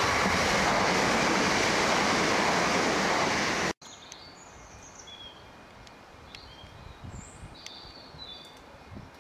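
Electric multiple unit train passing close at speed: a steady rushing of wheels on rail that cuts off suddenly a little over a third of the way in. Then a much quieter background with birds chirping.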